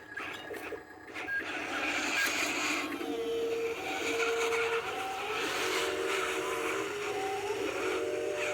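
Dump truck running on the road, heard from the cab, building up about a second and a half in. Whining tones sit over the noise and step from one pitch to another.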